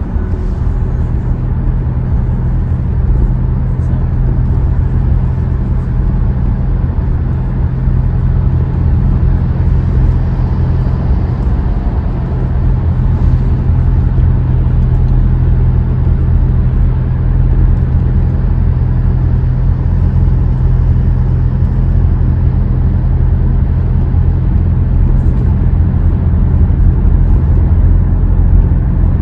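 Steady drive noise inside a Hyundai Tucson's cabin while it is moving: a low engine and road drone with a steady hum under it.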